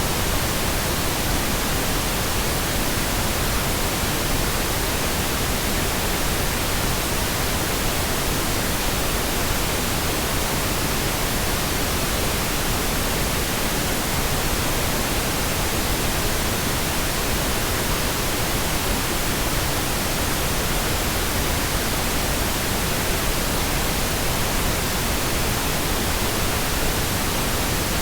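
Pink noise: a steady, even hiss across the whole range, unchanging throughout.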